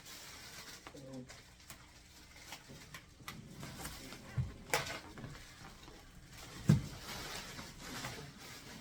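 Handling noises from unpacking: scattered clicks, knocks and rustles, with two heavier thumps in the second half and a sharp click between them. A voice murmurs briefly about a second in.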